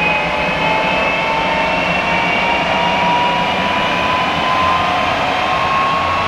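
Jet truck's jet engine running with a high whine that climbs slowly in pitch as the RPMs rise, over a steady rushing rumble.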